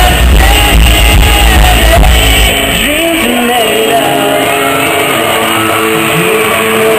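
Live pop-rock band with amplified singing and guitar, loud in an arena hall. The heavy bass drops out about two and a half seconds in, leaving the vocals and guitar.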